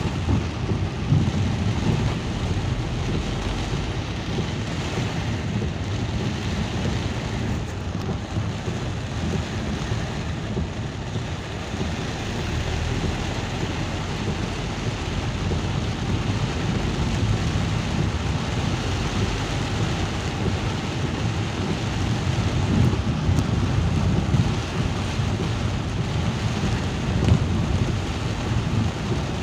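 Steady rain with a continuous low rumble.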